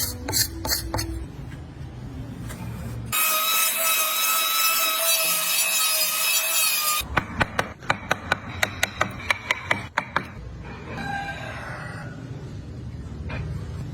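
Woodworking tool sounds in short edited cuts: a power tool whining steadily for about four seconds, then a quick run of sharp knocks on wood about four or five a second, then scraping and rubbing on wood.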